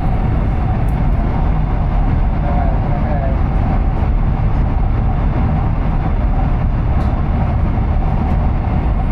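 Steady low rumble of a train running at speed, heard from inside the passenger carriage.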